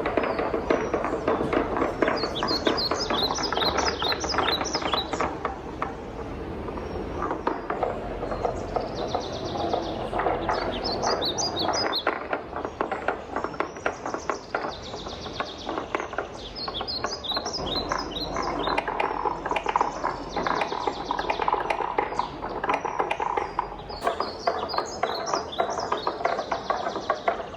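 Wooden balls rolling and clattering continuously down a wooden marble run, with a dense stream of clicks and knocks over a low rolling rumble. Every few seconds there are short runs of bright, high tinkling notes.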